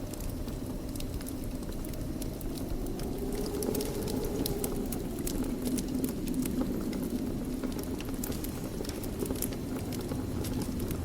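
Wood fire crackling in a fireplace: a steady low rumble with many small sharp snaps and pops scattered throughout.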